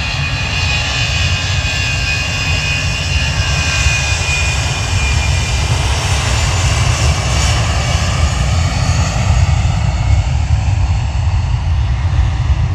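Airbus A320 jet airliner on its take-off run, with a steady loud engine noise and a high whine that fades near the start. Engine tones fall in pitch through the middle as the aircraft goes past.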